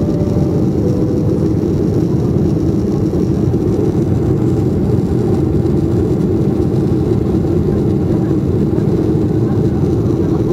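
Airliner cabin noise shortly after takeoff: a steady, even rumble of engines and airflow, strongest in the low range, with no change in level.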